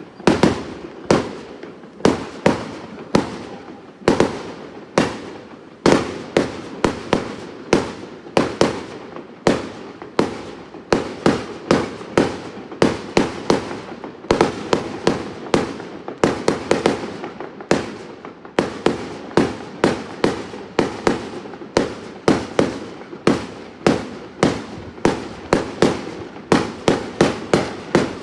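Fireworks going off one after another: sharp bangs about one or two a second, sometimes in quick clusters, over a continuous rumble of further bursts.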